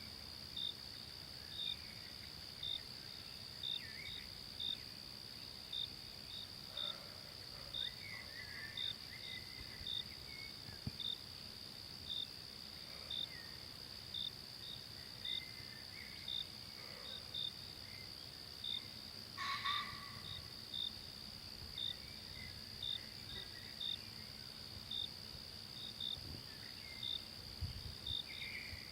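Forest ambience of insects: a steady high-pitched drone with a short high chirp repeating irregularly about once or twice a second, and faint distant bird calls. About two-thirds of the way through there is one brief, louder sound.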